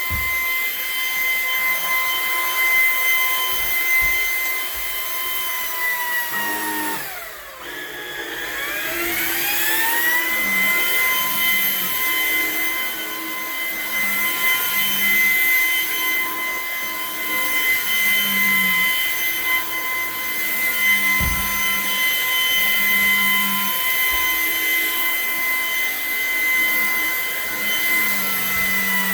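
Portable vacuum cleaner running with a steady high motor whine as it goes over a throw rug. About seven seconds in the whine sinks in pitch and then climbs back up to full speed over a few seconds, and it starts to wind down at the very end; a few faint knocks sound under it.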